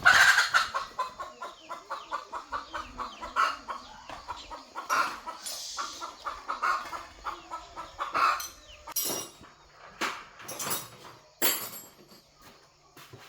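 A rapid series of short animal calls, several a second, loudest at the start and thinning out, with a few sharp knocks in the second half.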